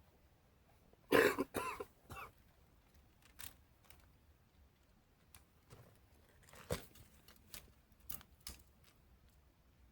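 A person coughs a couple of times about a second in, followed by scattered light clicks and knocks.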